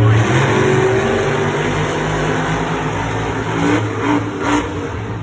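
Monster truck supercharged V8 engines running at high revs during a head-to-head race: a loud, steady engine drone that shifts in pitch a couple of times.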